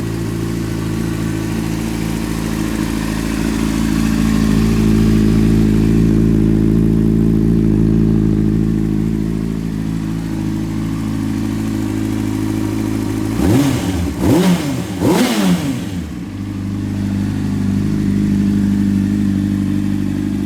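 2006 Honda CBR600RR inline-four idling through a Micron aftermarket exhaust, blipped three times about two-thirds of the way in, each rev rising sharply and falling straight back to idle.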